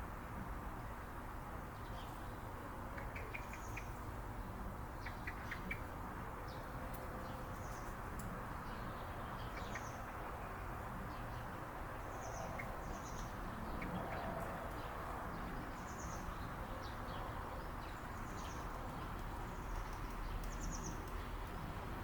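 Small birds chirping: short high calls repeated every second or two, with a few quick clicky chirp runs in the first several seconds, over steady outdoor background noise.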